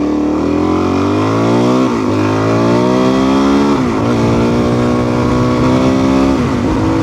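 Motorcycle engine accelerating through the gears while riding. Its pitch climbs, then drops sharply at each of three upshifts about two seconds apart, and climbs again after each.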